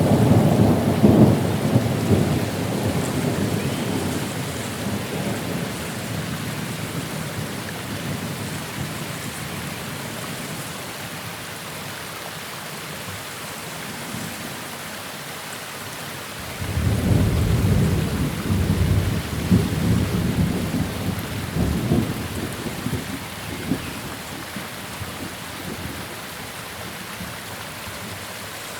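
Thunderstorm: steady rain with two rolls of thunder. The first rumble dies away over the first several seconds. A second starts suddenly a little past halfway, crackling and rumbling before it fades.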